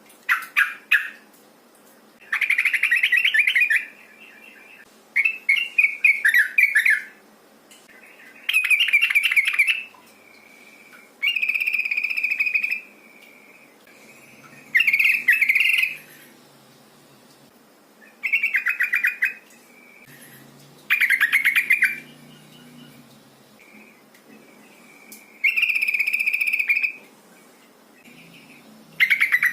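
Yellow-vented bulbul (trucukan) calls, given as a female calling a male: about ten rapid, bubbly chattering phrases, each one to two seconds long, repeated every few seconds.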